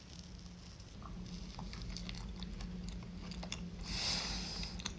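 A person chewing food close to the microphone, with many small wet clicks and mouth sounds, and a brief hiss about four seconds in; a faint steady hum runs underneath.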